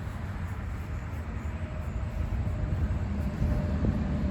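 A steady low rumble of a vehicle engine running, with a faint steady whine over it, growing a little louder near the end.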